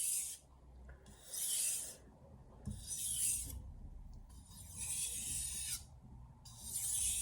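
Stainless Santoku knife blade stroked across a wet 1000-grit soaking whetstone: about five separate scraping strokes, the one in the middle longest, while sharpening to raise a burr.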